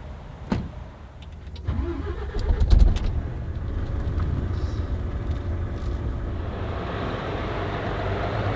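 Volvo truck's diesel engine and road noise, a low rumble that builds from about two seconds in and grows louder and steadier over the last two seconds. A few sharp clicks come in the first three seconds.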